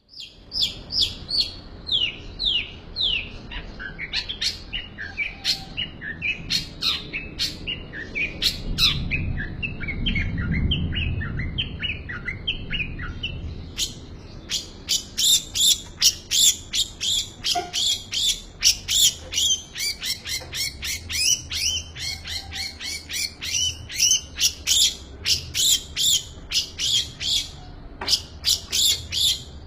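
Long-tailed shrike (cendet) singing a fast, varied song packed with mimicked calls of other birds. It opens with a run of quick down-slurred whistles, and from about halfway it shifts to a rapid series of loud, sharp high notes, several a second.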